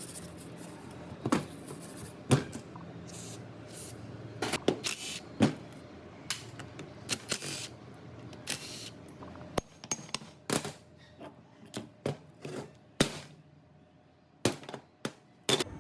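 Irregular metal clicks, knocks and short scrapes of hand tools and metal parts being handled, set down and worked on, spaced unevenly with a few louder knocks.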